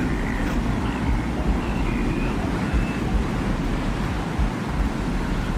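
Steady desert-wind ambience: a continuous low rumbling wind with a few faint, brief high tones drifting above it.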